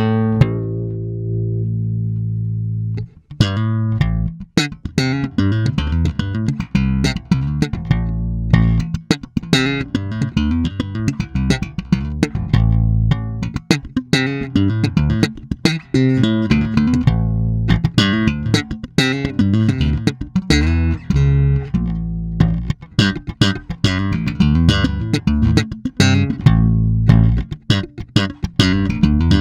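FGN Mighty Power electric bass played solo. One low note is held for about three seconds, then comes a fast, busy run of sharply attacked notes.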